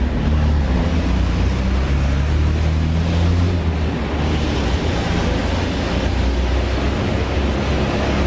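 City traffic rumble with wind buffeting the microphone: a steady low roar with an engine's hum, strongest in the first half, under an even rushing noise.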